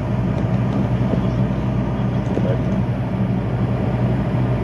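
Semi-truck's diesel engine running steadily with a low, even hum.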